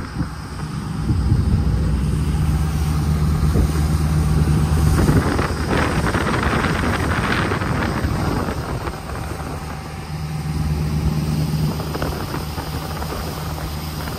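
Jet boat engine running under way, its drone swelling and easing, with wind on the microphone. A rushing burst of noise about midway through covers the engine.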